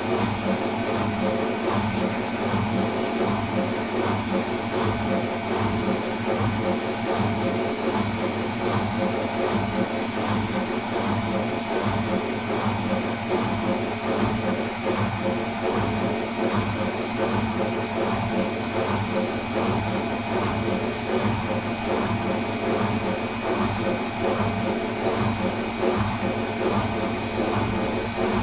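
Atlant 50U101 washing machine running steadily, a continuous whirring drone with a thin, steady high whine above it.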